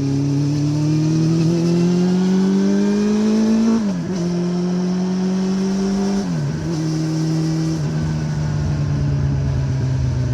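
Honda CB400 Revo's inline-four running through a Moriwaki aftermarket exhaust under acceleration. Its pitch rises steadily, drops at an upshift about four seconds in and again at a second upshift about six seconds in, then holds nearly steady while cruising.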